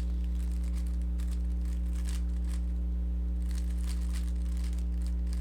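A Rubik's cube being turned through an algorithm: faint, irregular plastic clicking of its layers over a steady low hum.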